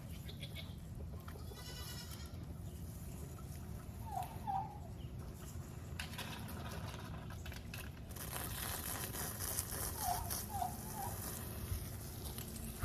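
Goats bleating in short calls, a pair about four seconds in and three more around ten seconds, over a steady low rumble. A hiss comes in during the second half.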